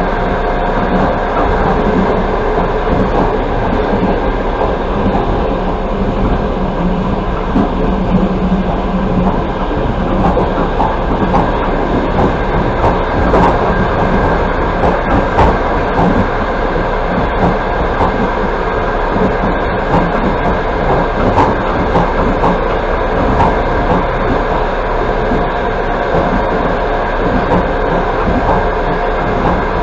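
Passenger coach of an express train running at speed: a steady rolling noise of the wheels on the track, with light, irregular clicks through the middle.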